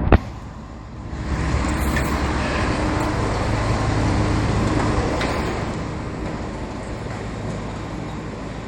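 A truck drives past: its engine and tyre noise swell from about a second in and fade away over the following few seconds, over a steady low rumble. A sharp knock sounds right at the start.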